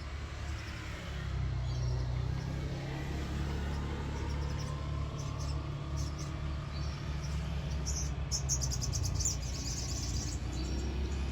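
A crested jay (sogon) giving a rapid series of high chirps about eight seconds in, lasting roughly two seconds, with a few scattered chirps before it. A steady low hum runs under it throughout and is the loudest sound.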